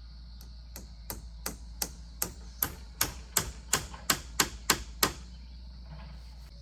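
Hammer blows: about a dozen sharp, evenly spaced strikes, roughly three a second, getting louder, stopping about five seconds in. Steady insect buzz underneath.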